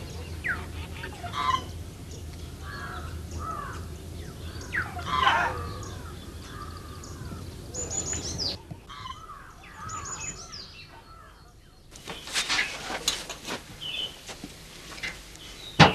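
Birds chirping and calling in short, curving notes, over a low steady hum. In the second half come several sharp knocks, with a louder one near the end.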